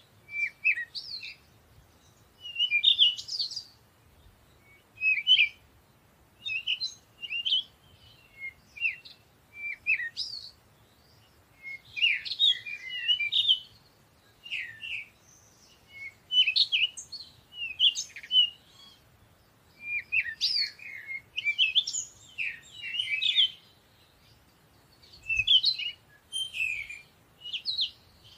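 Birds chirping: short phrases of high, quick chirps, one after another every second or two with brief pauses between.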